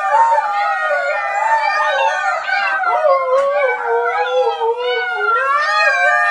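An adult Siberian husky and a litter of husky puppies howling together: several long, wavering howls at different pitches overlapping without a break.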